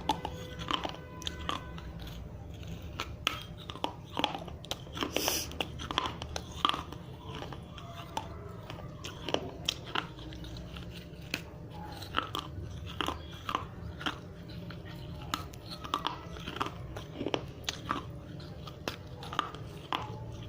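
Dry red clay diya being bitten and chewed, crunching in many sharp, irregular cracks over a steady low hum.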